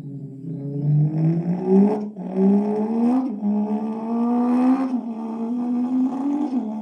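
A person imitating a Porsche 911 engine with his voice, a buzzing hum accelerating through the gears: the pitch climbs, falls back briefly at each imitated gear change, about four times, and climbs again.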